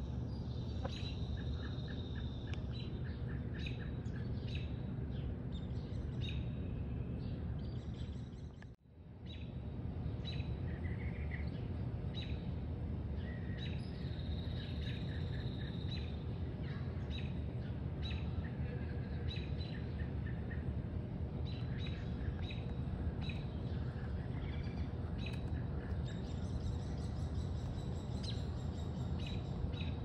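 Birds chirping: many short, high calls repeated through the whole stretch, over a steady low outdoor rumble. All sound cuts out briefly about nine seconds in.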